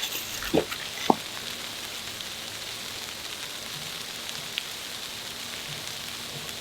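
Steady fine hiss of a snowstorm, snow hitting surfaces, with two sharp knocks about half a second and a second in.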